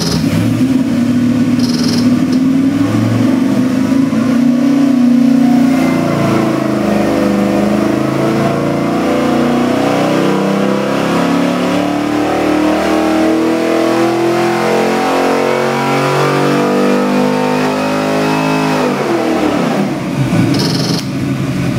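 A 427 cubic-inch LS3-based stroker V8 making a dyno pull: the engine speed climbs in small steps for about nineteen seconds, then drops off quickly as the throttle is let go. This is the full-power run that measures its output.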